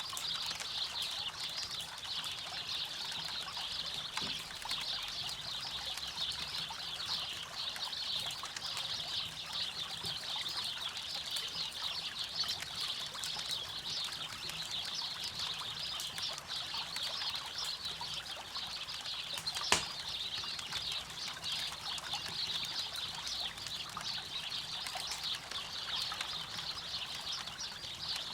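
Steady rush of river water with a campfire crackling, and one sharp pop from the fire about two-thirds of the way through.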